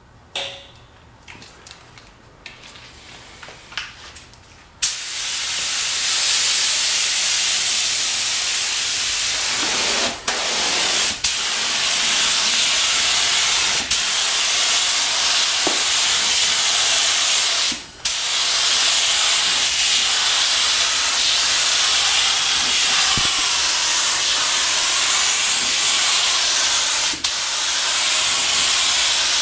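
Paint spray gun spraying: a loud steady hiss of air and paint that starts about five seconds in, broken by a few brief drops. Before it, a few small clicks.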